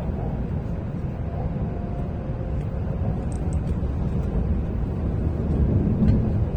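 W7 series Shinkansen train in motion, heard from inside a passenger car: a steady low running rumble with faint thin tones above it, growing slightly louder over the last couple of seconds.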